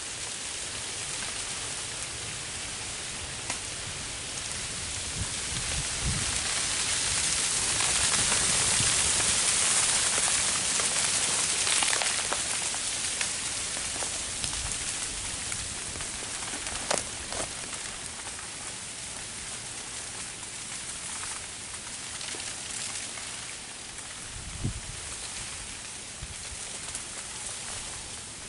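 Freezing rain falling steadily on ice-glazed branches and dry leaf litter, a hissing patter that swells for several seconds midway. Occasional sharp ticks stand out, and there is one dull thump near the end.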